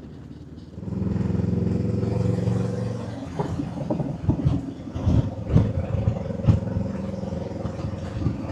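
Motorcycle engine running at a steady pitch. From about halfway through it is joined by irregular knocks and clatter.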